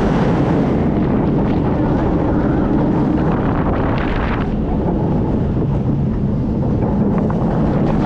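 Steady rush of wind buffeting the camera microphone on a moving roller coaster, with the coaster running on its track underneath.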